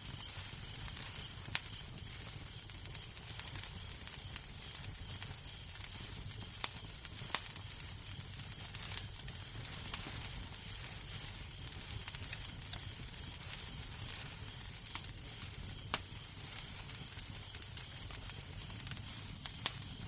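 Wood fire crackling in a fireplace: a steady hiss with scattered sharp pops, half a dozen louder ones standing out, over a low steady rumble.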